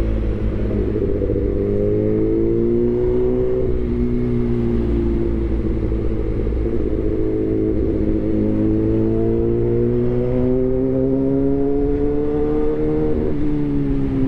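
Suzuki GSX-R1000R inline-four running through an imitation SC-Project exhaust. The engine note rises slowly for a few seconds and eases off about a third of the way in. It then climbs steadily again and drops back near the end.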